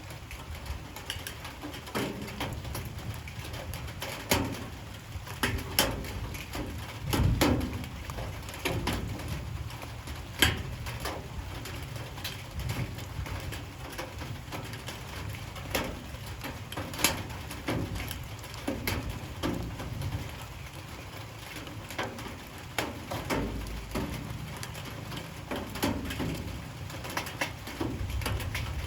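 Light rain falling, with many irregular sharp drips tapping through a steady patter.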